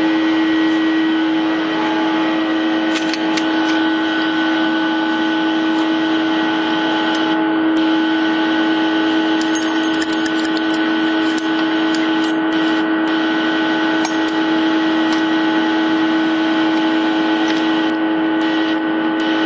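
Steady, loud machine hum made of several unchanging tones, with a few faint ticks.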